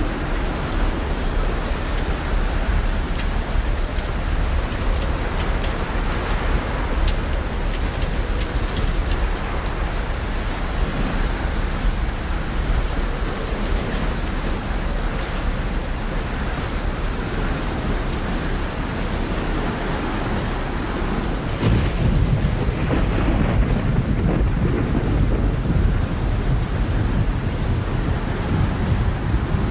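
Steady rain falling, with thunder rumbling low underneath; the rumble grows louder about three-quarters of the way through.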